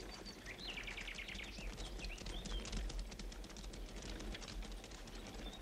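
Birds chirping, with a fast trill about half a second in, over a faint outdoor background with scattered faint clicks.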